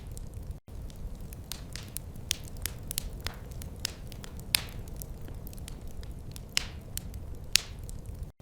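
Wood fire crackling: irregular sharp pops and snaps over a steady low rumble, a few of them much louder than the rest. The sound cuts out for an instant twice.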